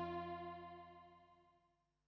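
Release tail of a sustained note from the Arturia Vocoder-V software synth, rich in overtones, dying away over about a second, followed by silence.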